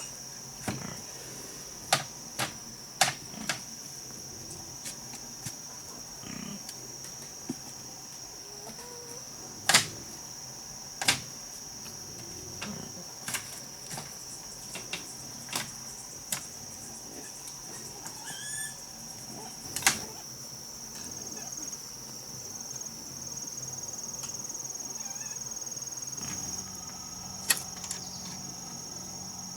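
Insects trilling steadily in a high, unbroken chorus, with a scattering of sharp knocks and clicks at irregular intervals, about fifteen of them, and a brief pitched call about two-thirds of the way through.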